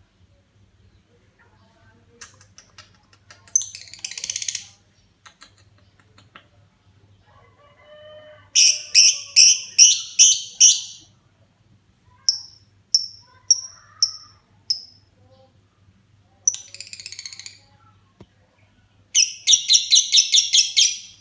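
Lovebird singing in bursts of rapid, high chirps: a short trill about four seconds in, a run of about seven loud chirps around nine seconds, five short chirps just after twelve seconds, another burst around seventeen seconds, and a fast run of about nine chirps near the end. This is a lovebird coming into full, frequent song.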